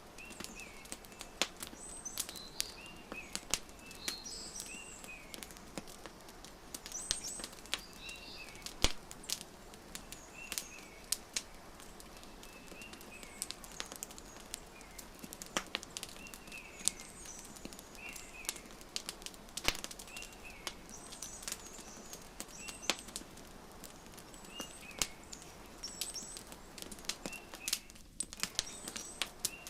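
Wood fire crackling with frequent sharp pops, layered with a bird giving short chirps every second or two.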